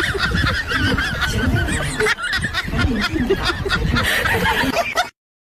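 Loud, rapid honking bird calls, several overlapping, that stop abruptly a little before the end.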